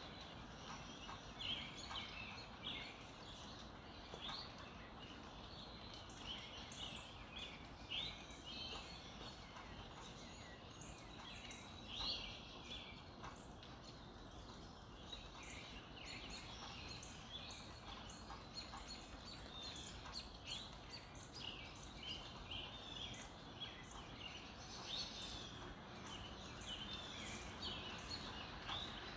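A dawn chorus of songbirds: many short chirps and song phrases overlapping throughout, over a faint steady outdoor hiss.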